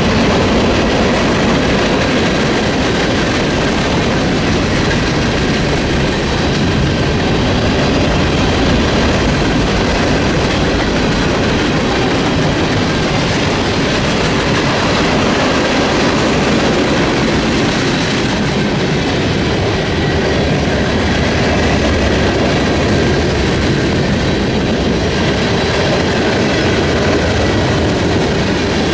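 Freight train cars rolling past at close range: a steady, loud rumble of wheels on rail with clickety-clack over the rail joints and faint wheel squeal.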